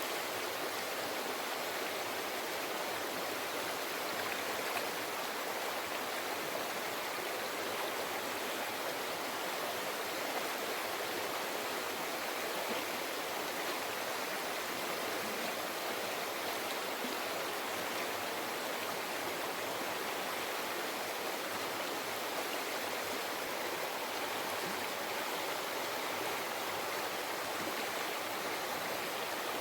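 River water flowing steadily, a continuous even babble with no breaks.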